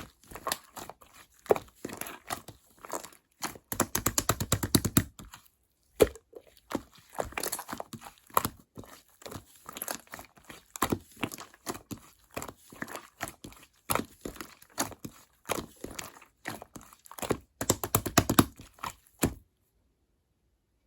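White slime being squished and kneaded by hand: irregular sticky clicks and pops, with two fast runs of crackling popping, about four seconds in and near the end, before it stops.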